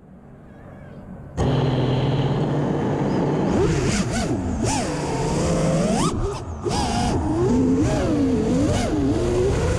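FPV quadcopter's brushless motors, starting abruptly about a second and a half in. Through the rest, the whine swoops up and down quickly with the throttle, under a hiss of wind and propellers.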